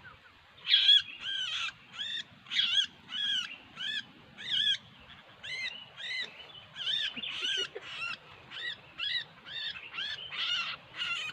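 Sooty-headed bulbul (kutilang) calling: a steady run of short, arched chirps, about two a second.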